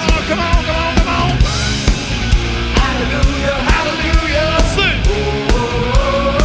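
A band playing a rock song without vocals: a steady drum beat of about two beats a second under a wavering melodic line.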